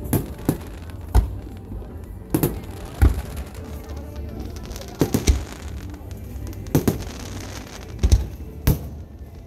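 Aerial firework shells bursting overhead: a string of about ten sharp bangs at irregular intervals, some in quick pairs, over a steady low rumble.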